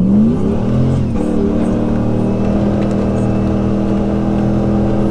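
Jeep Grand Cherokee engine heard from inside the cab. It revs up, dips and climbs again about a second in, then holds steady revs as the Jeep drives the off-road trail.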